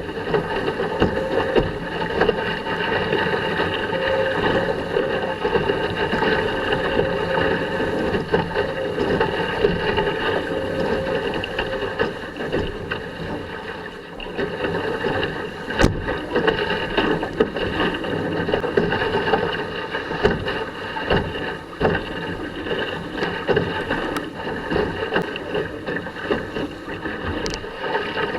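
Sailing dinghy under way in a strong breeze: water rushing and splashing along the hull, with wind buffeting the microphone throughout. A single sharp knock comes about halfway through.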